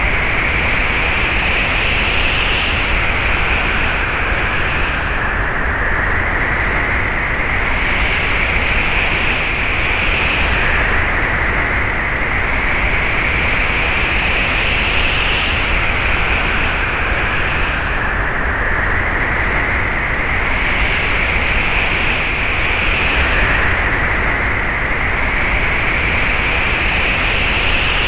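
Wind blowing steadily with a rushing hiss and a low rumble, and a whistling note on top that slowly rises and falls in pitch every few seconds as it gusts.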